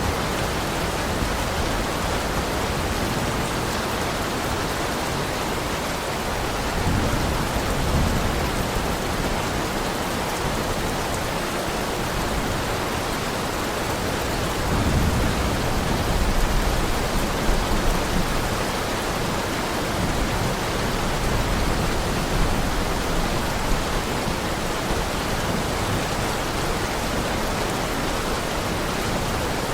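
Heavy rain falling steadily, with low rolls of thunder rumbling under it about a quarter of the way in and again around the middle.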